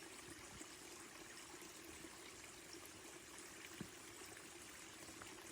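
Near silence: a faint steady rushing hiss, with one faint click about four seconds in.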